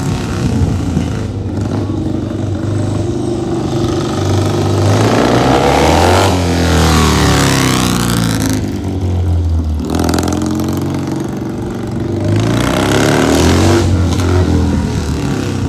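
Classic motorcycle engine being revved, its note rising and falling several times.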